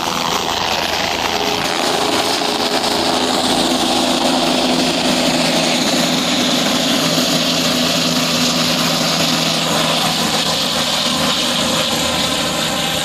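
Steady engine noise: a constant low hum under a broad rushing sound that swells and fades slowly.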